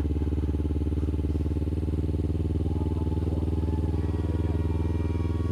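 Kawasaki Ninja 300's parallel-twin engine running steadily at low, unchanging revs.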